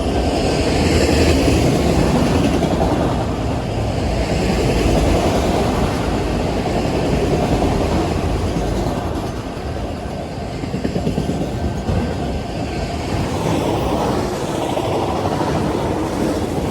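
Steady, loud rumbling noise of a moving vehicle.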